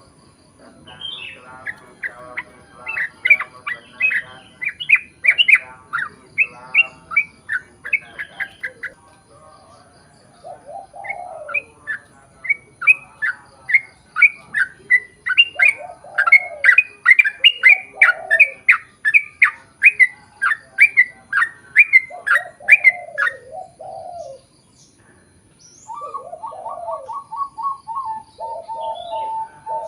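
Yellow-vented bulbul (trucukan) singing a long, fast run of sharp, chattering notes, about three to four a second, in two long bouts. Near the end, lower, steadier repeated calls take over.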